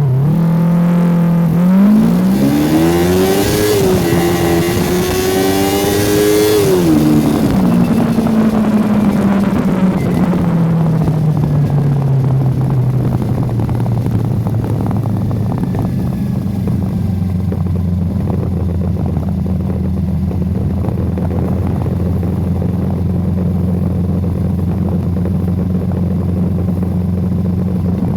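Yamaha YZF-R25 motorcycle engine pulling hard, its pitch climbing with a gear change a few seconds in, held high under a rush of wind, then easing off as the revs fall away over several seconds. It settles into a steady low drone for the rest.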